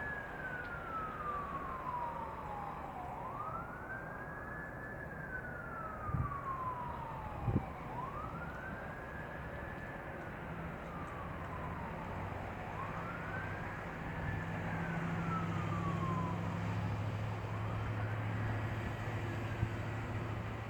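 A siren wailing, each cycle rising quickly then falling slowly and repeating about every four seconds, over a steady low engine hum that grows louder partway through. Two short knocks come about six and seven and a half seconds in.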